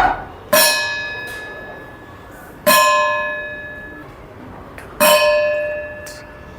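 A bell struck three times, about two seconds apart, each stroke ringing on and fading slowly, the strokes for the children to count.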